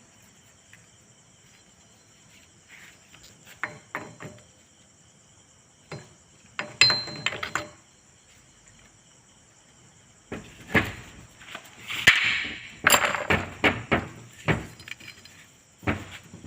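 Irregular metallic clinks and knocks, sparse at first and coming thick and fast in the last few seconds, with one short metallic ring about seven seconds in.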